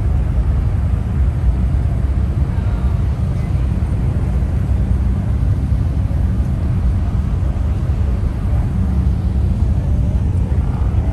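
Car driving along, giving a steady low rumble of engine and road noise with no change in pace.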